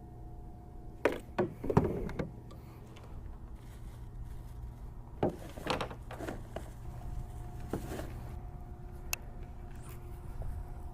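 Knocks and clatters of gear being handled on a fishing kayak, over a steady low rumble. The knocks come in clusters about a second in, around five to six seconds in, and near eight seconds.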